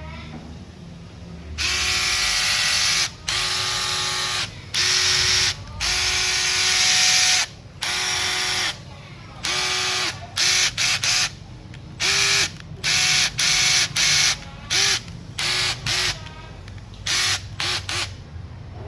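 Makita DTW285 18V cordless impact wrench run free in repeated trigger pulls: a steady-pitched motor and gear whine that starts and stops about fourteen times. The first runs last a second or more each, and near the end come short quick blips.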